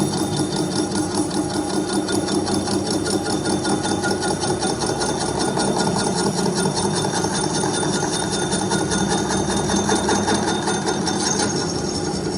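A machine running steadily with a fast, even clatter of about five beats a second over a constant hum.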